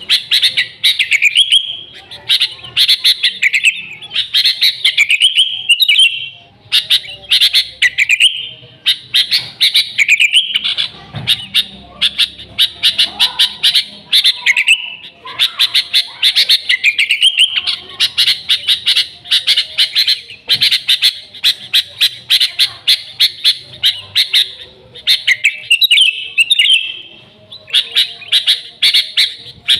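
Sooty-headed bulbul (kutilang) singing loudly and without let-up: fast runs of sharp chirps in phrases of a few seconds, with short pauses between phrases.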